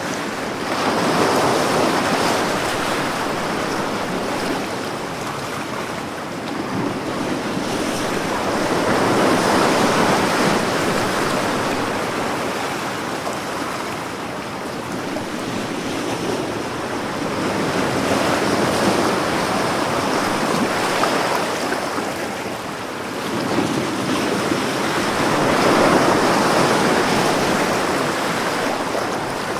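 Ocean waves breaking on a shore, a steady wash of surf that swells and eases, with a new wave about every eight seconds.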